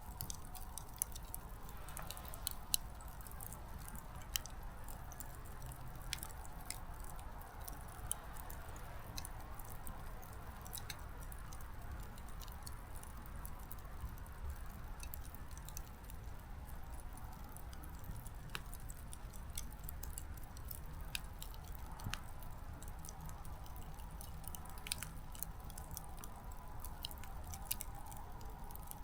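Small wood fire burning low: firewood crackling with scattered sharp pops over a soft steady hiss.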